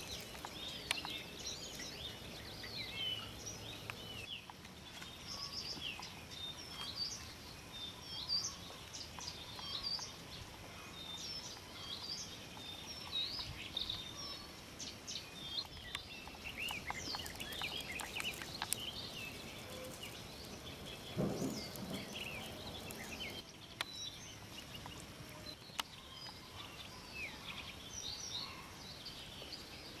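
Several songbirds singing, a steady stream of short high chirps and trills over a constant background hiss. A brief low rumble comes about twenty-one seconds in.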